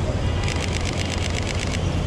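Steady street traffic rumble, with a rapid run of about a dozen sharp clicks, roughly ten a second, lasting just over a second in the middle.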